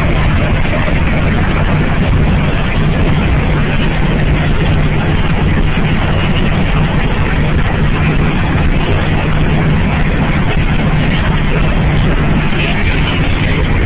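Car engine and road noise from inside a moving car: a steady, unbroken drone with a low hum.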